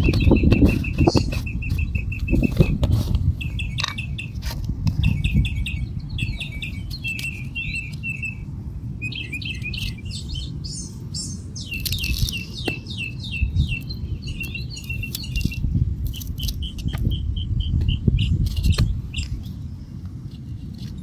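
Small birds chirping in rapid trills of short, high, evenly repeated notes, over and over, with a steady low rumble and a few scattered clicks beneath.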